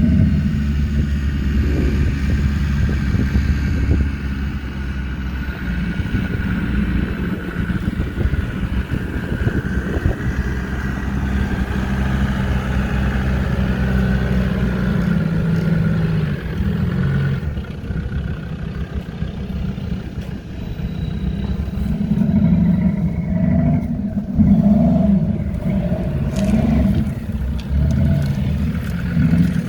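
A 4x4 off-roader's engine working over rough ground, its revs rising and falling, most unevenly in the last several seconds.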